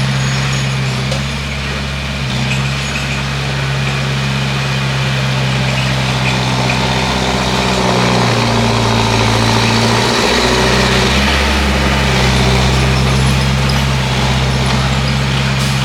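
Bulldozer's diesel engine running steadily, its note stepping down and back up a few times.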